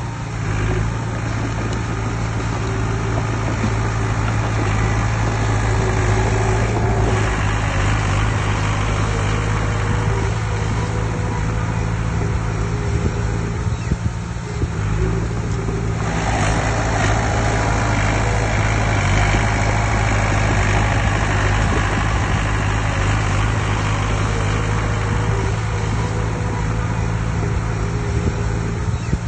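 Heavy diesel earthmoving machinery running steadily, a low engine drone under a rough mechanical noise. About halfway through, the noise grows harsher and brighter as the machine works harder.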